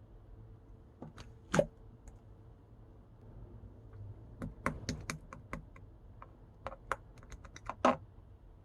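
Pink pearl slime being pressed and squished, giving crisp clicking pops of trapped air: a couple of single clicks, then a quick run of many clicks in the second half, the loudest near the end.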